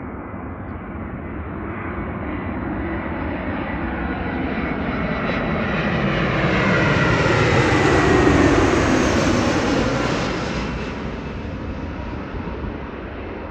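Airbus A320-200 airliner's jet engines passing by on arrival, growing louder to a peak about eight seconds in, then fading as the whine drops in pitch.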